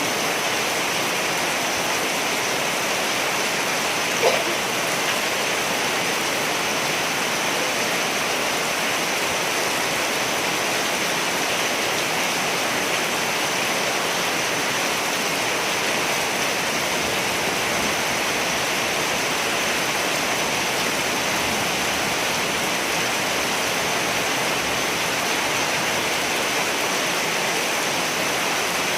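Steady rain falling, an even unbroken hiss of drops, with one short sharp tick about four seconds in.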